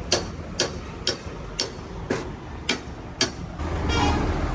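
Sharp, evenly spaced taps about twice a second, then a low steady rumble that comes up near the end.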